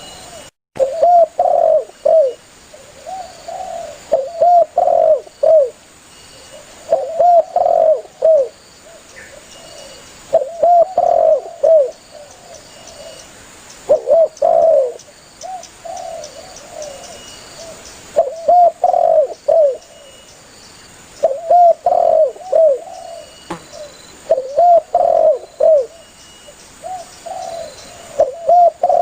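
Spotted dove (tekukur) cooing over and over, each phrase a quick run of a few curved coo notes, repeated about every three seconds. This is the calling-to-companions song used as a lure for doves.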